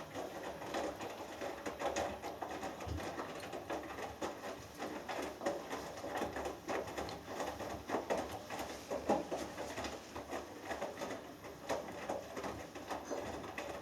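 Hoover Dynamic Next washing machine in its wash phase: the drum tumbles a load of wet laundry, with an irregular pattering and sloshing of water and clothes.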